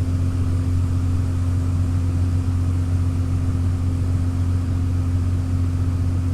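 Farm machine's diesel engine running at a steady, unchanging speed, a constant low drone.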